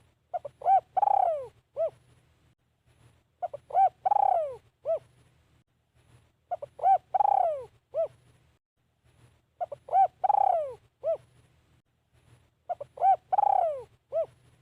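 Spotted dove cooing its song phrase five times, about every three seconds. Each phrase is a few short coos and one long falling coo, the call used to lure wild doves in decoy trapping.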